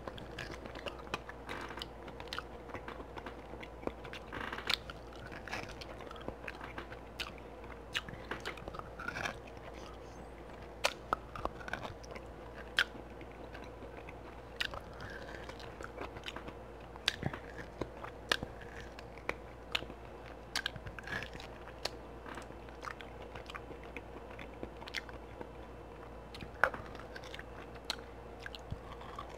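Close-miked chewing and biting of sauce-glazed beef ribs: irregular wet smacks and clicks of eating.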